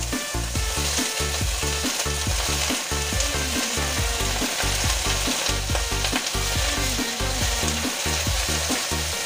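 Food sizzling hard in a hot wok as black fungus is dropped in and stirred with a wooden spatula. A low, rhythmic background music line runs underneath.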